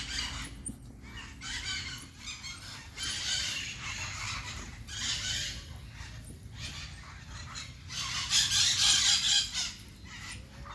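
Domestic chickens calling in a string of short squawking calls. A louder, longer call comes about eight seconds in and lasts over a second.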